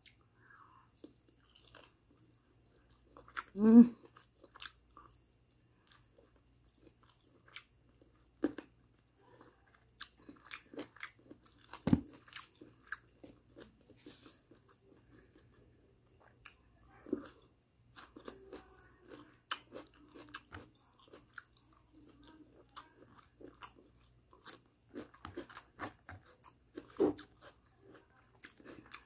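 Close-up chewing and biting of barbecue chicken and rice, with many short wet mouth clicks and crunches. A brief loud sound with a wavering pitch comes about four seconds in, and a sharp knock about twelve seconds in.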